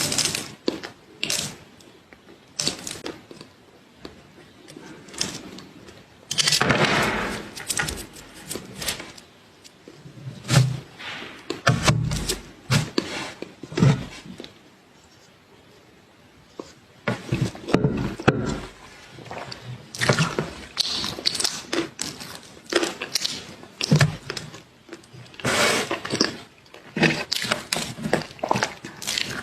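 Close-miked eating: crunchy bites and chewing in bursts, with a pause of a few seconds about halfway through.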